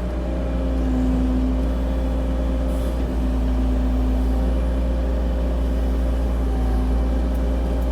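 CAT 304 E2 mini excavator's diesel engine running steadily at a fixed throttle, its auto idle switched off so it holds speed while the hydraulic arm works.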